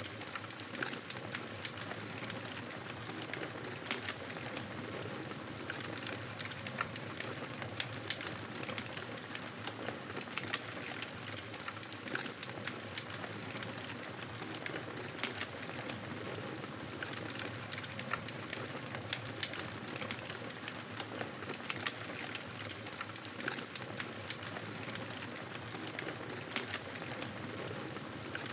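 Fireplace fire crackling: frequent small snaps and pops scattered over a steady hiss.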